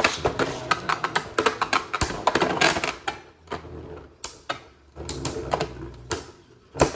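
Beyblade Burst spinning tops, Union Achilles and its opponent, battling in a plastic stadium: rapid, irregular clacks and knocks as they collide. The hits thin out for a moment midway, and a loud cluster of clacks comes near the end.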